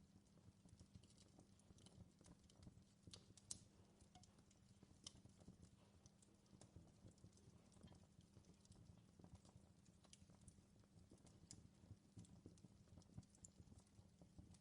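Wood fire crackling faintly in a fireplace: irregular small pops and snaps over a low steady rumble.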